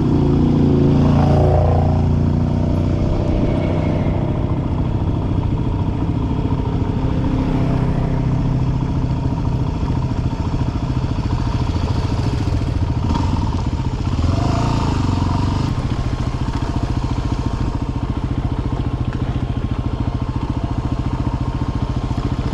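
Dirt bike engine running steadily as the bike rides along, a little louder in the first couple of seconds.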